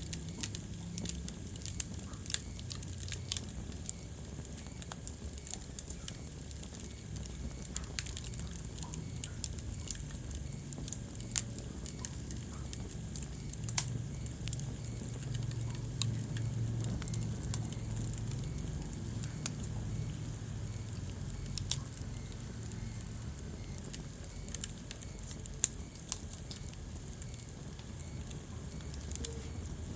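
Wood fire burning in a fireplace: irregular sharp crackles and pops, a few of them louder, over a low steady rumble of flames.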